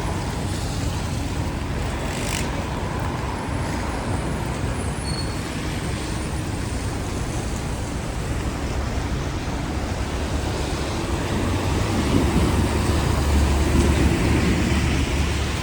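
City avenue traffic on rain-wet streets, a steady wash of engines and tyres. A heavier vehicle passes about twelve seconds in and the sound grows louder for a few seconds.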